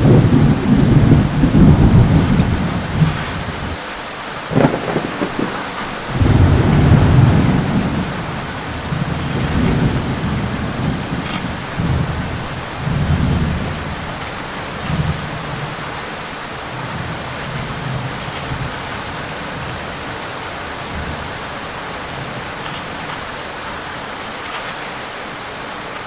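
Steady rain with rolling thunder. Low rumbles are loudest in the first half, with a sharp crack about four and a half seconds in and a heavy roll just after. The thunder then fades away, leaving only the hiss of the rain.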